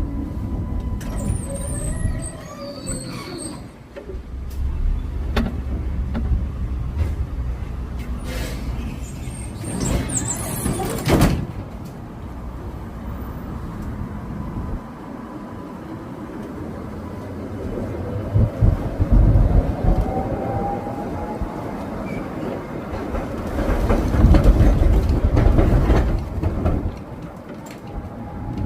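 Streetcar running along its rails: a steady low rumble with clattering knocks, a brief high squeal a couple of seconds in and a loud knock about eleven seconds in. A rising whine comes in around twenty seconds, and the rumble swells near the end.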